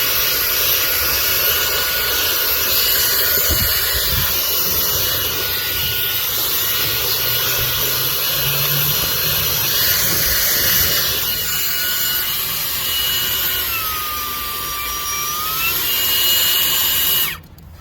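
ROIDMI cordless handheld vacuum running with a steady high whine and rushing air, its pitch dipping briefly and recovering near the end as the suction is loaded. It then shuts off suddenly.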